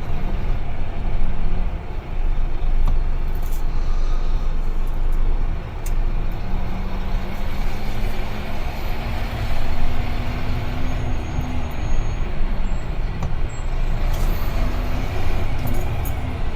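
Heavy truck (UD Trucks Quon) driving, with its diesel engine and road noise making a steady low rumble. A faint engine tone climbs slowly in the middle and falls away again.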